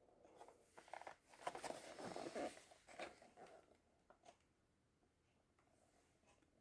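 Faint rustling and scraping of packaged toy cars being handled, with two light clicks about four seconds in.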